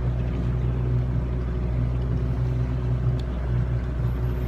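A boat's engine running steadily under way, a constant low drone.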